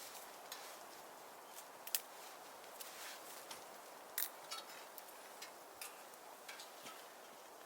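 Burning firewood crackling: irregular sharp pops and ticks over a steady soft hiss, with two louder pops about two and four seconds in.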